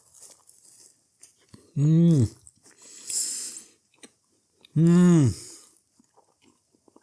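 A man chewing a mouthful of muffin and giving two drawn-out "mmm" hums of approval, each rising then falling in pitch, about two and five seconds in, with a breathy hiss between them.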